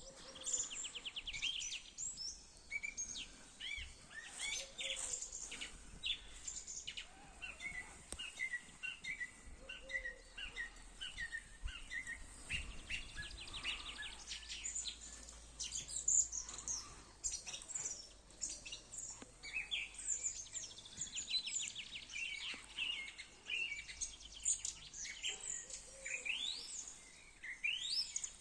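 Several songbirds singing at once in spring: a dense chorus of overlapping whistled songs, chirps and rapid trills.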